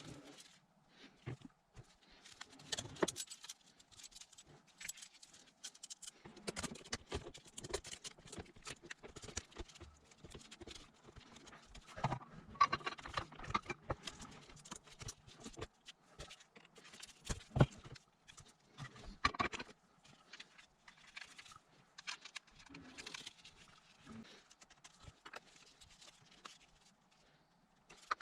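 Hands assembling a battery chainsaw: irregular clicks, knocks and light rattles of plastic and metal parts as the bar and chain are fitted and handled.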